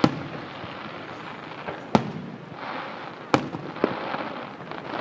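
Aerial fireworks shells bursting in a sharp bang near the start, another about two seconds in, and two more past three seconds, with a steady crackling haze between the bangs.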